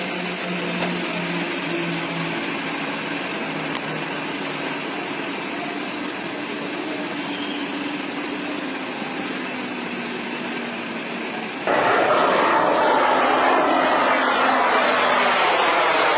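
Jet aircraft engine noise: a steady rush with a faint whine. About 12 seconds in it suddenly becomes much louder, with a sweeping, falling pitch like a jet passing close by.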